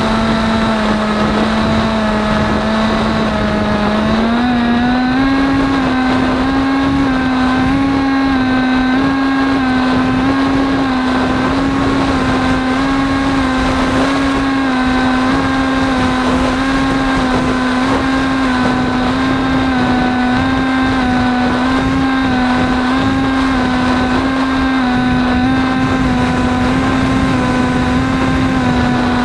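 Electric motor and propeller of an AXN Floater-Jet RC foam plane running steadily, a droning tone over rushing noise; the pitch rises a little about four seconds in, then holds with slight wavers as the throttle changes.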